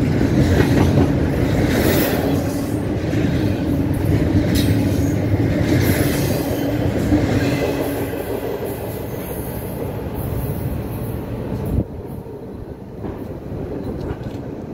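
Freight train of double-stacked containers rolling past, its wheels rumbling and clattering on the rails with a steady hum. The sound fades after about eight seconds as the last cars go by, and a single sharp knock comes near the end.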